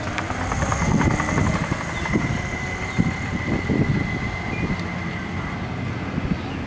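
Razor electric children's motorcycle being ridden: a steady high whine over rumbling, rattling noise.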